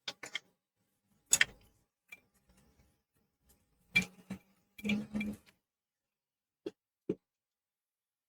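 Small tools and console parts being handled on a workbench: scattered sharp clicks, taps and knocks, a cluster of them about four to five seconds in and two light taps near seven seconds.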